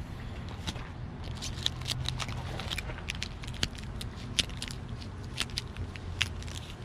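Razor blade scraping stickers off a windshield's glass: irregular sharp ticks and short scratchy scrapes with crackling as the sticker comes away, over a low steady hum.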